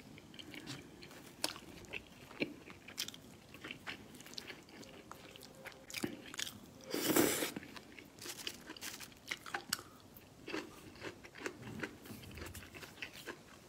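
A person chewing and biting food close to the microphone, with scattered crunches and small mouth clicks, and one louder noise about seven seconds in.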